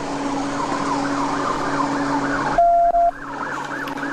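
Police car siren on a fast yelp, rising and falling about three times a second, with a short loud steady beep cutting in for about half a second near the three-second mark.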